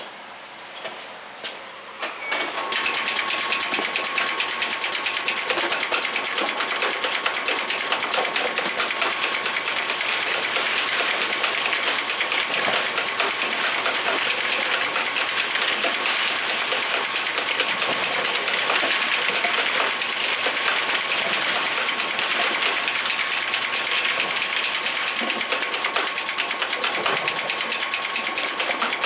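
Automatic bottle capping machine starting up about two and a half seconds in after a few light clicks, then running steadily with a fast, even mechanical chatter and a thin steady whine.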